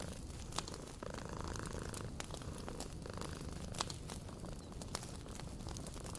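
A cat purring steadily, with the frequent sharp crackles of a wood fire popping over it.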